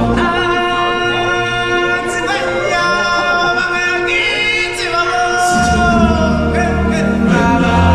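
Stage-show music with a choir singing held notes and sliding pitches. The low bass drops out at the start and comes back in about five and a half seconds in.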